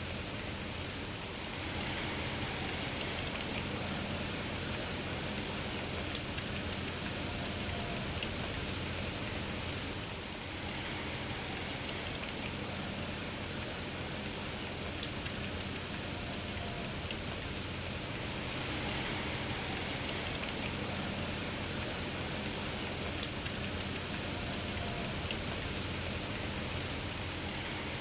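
Steady rain falling, an even patter of drops. Three sharp, louder single taps stand out, roughly every eight or nine seconds.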